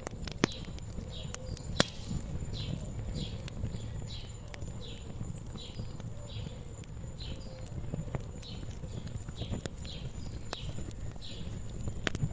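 Wood fire crackling with a low rumble and scattered sharp pops, the loudest about half a second in, just under two seconds in and near the end. A bird repeats a short, high, falling chirp about twice a second throughout.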